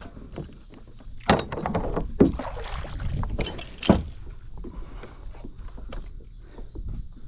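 Anchor being hauled up into a kayak: rope and water rustling, with three sharp knocks against the hull, the loudest near the middle.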